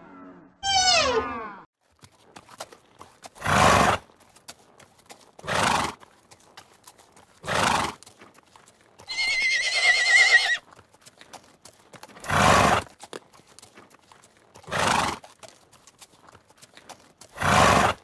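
Horse sounds: six short, breathy snorts about two seconds apart, with a quavering whinny around the middle and faint clicks between. A falling animal call ends just after the start.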